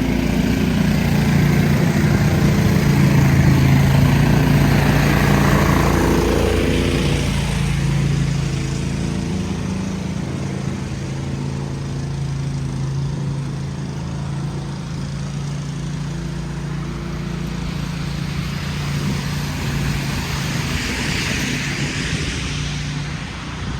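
An engine running steadily close by with a low, even hum, loudest a few seconds in. A hiss swells and fades twice over it, about five seconds in and near the end.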